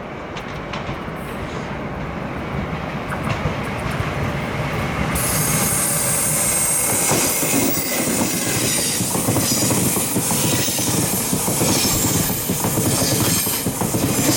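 Taiwan Railway Tze-Chiang express train approaching and passing, growing louder, with wheels rumbling and hissing on the rails from about five seconds in and scattered clacks over the rail joints.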